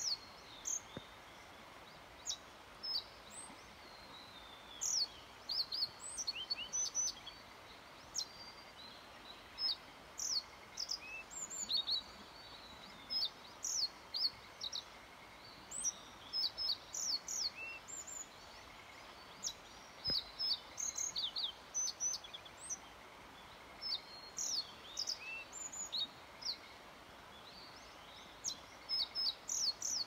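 Yellow bunting singing: short phrases of high, clear notes repeated every few seconds over a steady background hiss.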